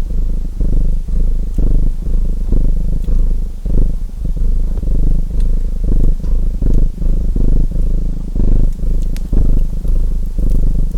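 Domestic cat purring close to the microphone, a loud steady low rumble that swells and eases with each breath in and out, about twice every second.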